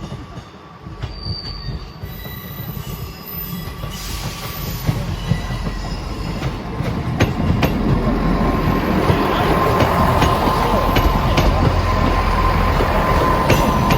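A train running slowly through curved station track, its wheels squealing with a steady high tone that grows louder as it comes closer, with occasional clicks from the rail joints.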